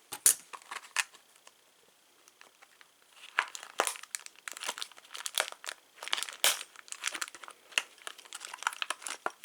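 Plastic packaging crinkling and crackling as it is pulled and cut open, in scattered sharp crackles, then a short pause, then a denser run of crackling.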